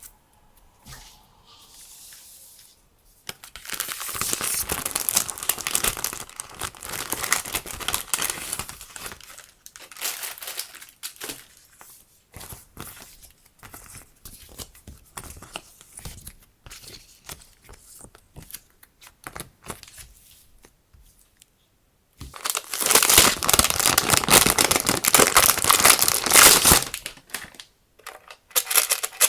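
Packaging being crinkled and torn open in two long stretches, about three seconds in and again past twenty seconds, with small taps and rustles in between.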